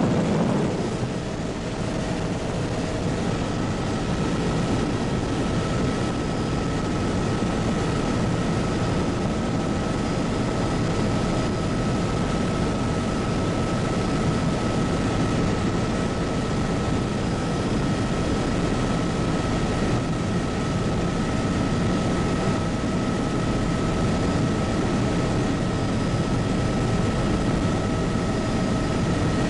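Steady in-flight cabin noise of a Bell 206B JetRanger helicopter: the turbine engine and rotor make a constant drone, with a thin, steady whine over it.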